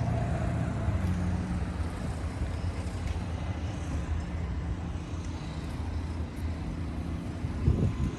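Car engine idling steadily, with a brief louder noise near the end.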